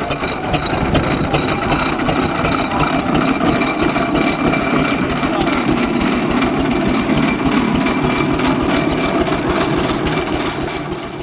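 Vintage engine idling steadily with a fast, even firing beat.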